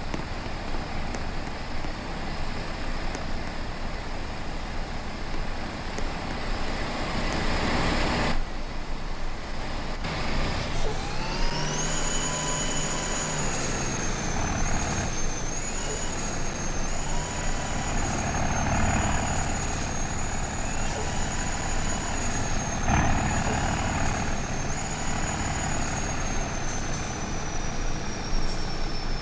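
Truck on the road while towing, with steady engine and road noise. About a third of the way in a high whine rises, then holds with small repeated dips and slowly sinks near the end.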